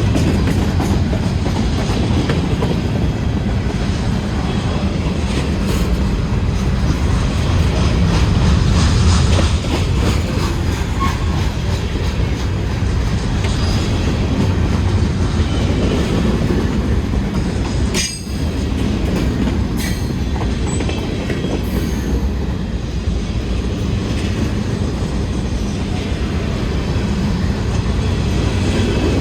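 Norfolk Southern freight train's cars rolling steadily past, the steel wheels clicking rhythmically over rail joints. Briefly quieter for a moment past the middle.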